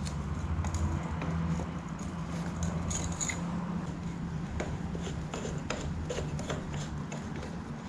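Scattered metallic clicks and scrapes of channel-lock pliers working the collar of a garden tractor's fuel filter bowl loose, over a steady low hum.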